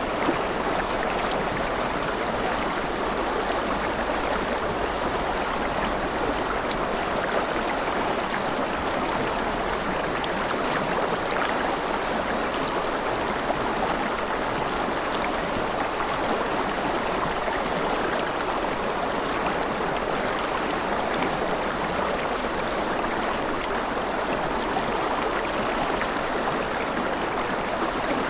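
River water flowing and splashing steadily, an even rushing with small splashes and gurgles throughout.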